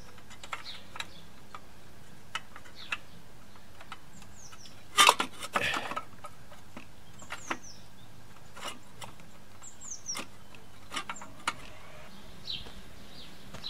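Scattered clicks and knocks of tools and metal parts being handled, with a louder clatter about five seconds in. Birds chirp in the background now and then.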